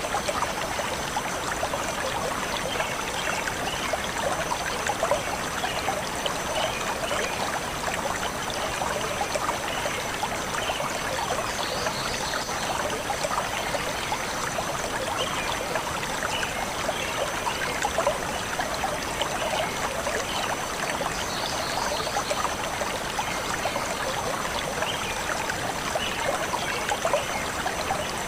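Shallow stream flowing steadily over rocks, a dense, even babble and splash of water.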